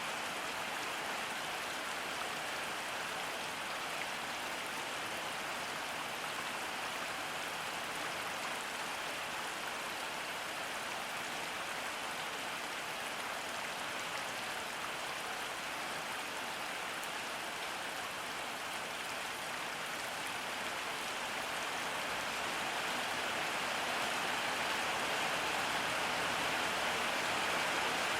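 Steady rain falling, an even hiss with faint drop ticks, swelling slightly louder near the end.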